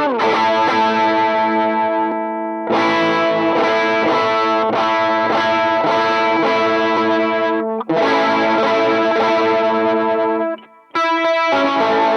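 Distorted electric guitar played through a Mooer Pitch Box pitch-shift/detune pedal: long ringing chords, with a downward pitch slide right at the start and a few short choppy stabs about eleven seconds in.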